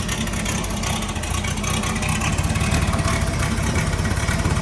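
Nissan Z31's V6 engine turning steadily with a fast, even pulse while the cylinder 1 ignition coil is checked; that coil is found to give no spark.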